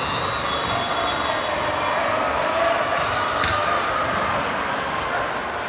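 Indoor volleyball game in a gym: a steady hubbub of players' and spectators' voices, short high squeaks, and one sharp hit about three and a half seconds in.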